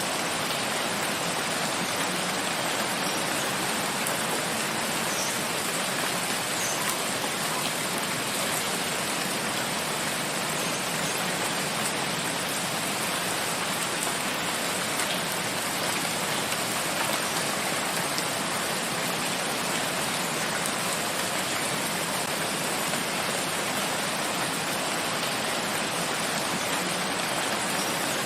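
Steady rain falling in a forest, an even hiss of drops with a few faint distinct drips.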